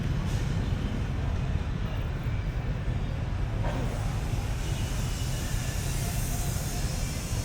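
Street traffic ambience: a steady low rumble of vehicles, with a higher hiss joining about four and a half seconds in.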